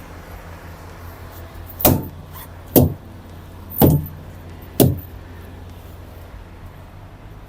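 Four loud knocks or thumps about a second apart, over a steady low engine hum.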